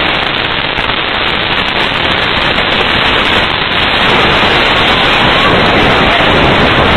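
Loud, steady rushing noise right after the Beirut port explosion's blast hits the building: the blast's roar with clattering debris.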